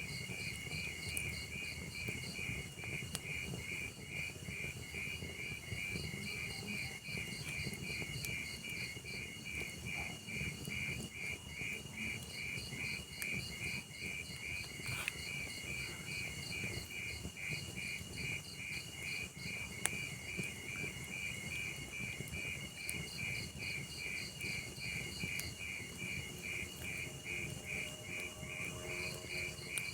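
Crickets chirping in a steady, even rhythm, with a second chirping cricket joining in and dropping out at a higher pitch. Under it is the low hiss of a log fire with a few sharp crackling pops, the loudest about twenty seconds in.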